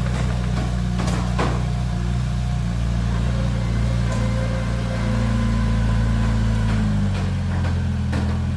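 Diesel engine of a heavy earthmoving machine running steadily with a deep, low drone; its pitch shifts about seven seconds in. A few metallic clanks come twice near the start and once near the end.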